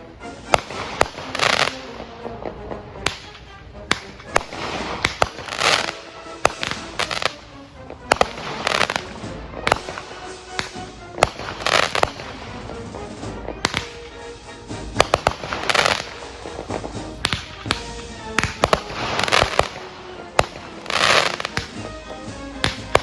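Consumer fireworks going off in quick, irregular succession: many sharp bangs, sometimes several a second, with longer, noisier bursts every second or two.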